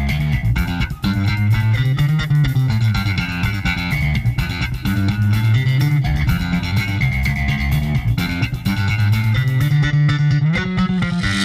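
Instrumental band music with a prominent electric bass guitar line over drums and guitar. The high end drops away briefly near the end.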